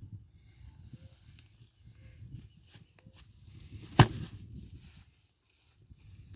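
One heavy axe blow striking wood about four seconds in, over low rustling and a few small knocks.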